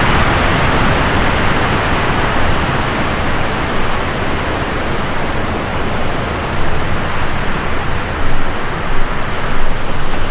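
Heavy rain pouring down in strong wind, a steady noise with louder gusts in the second half.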